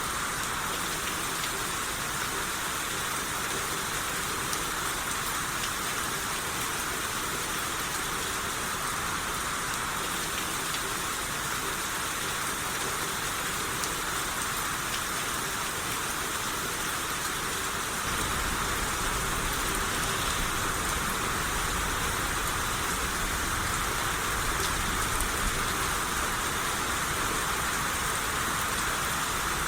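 Steady rain falling on surfaces, a dense even hiss. About 18 seconds in, a low rumble joins and the sound gets slightly louder.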